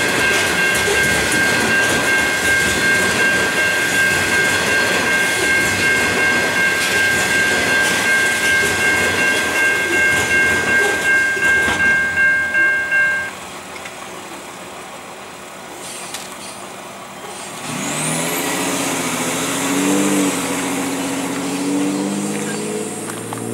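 Coal train's hopper wagons rolling over the level crossing, a regular clatter of wheels under a steady high ringing, which stops abruptly about 13 seconds in as the last wagon clears. After a quieter lull, a pickup truck's engine runs as it drives over the crossing near the end.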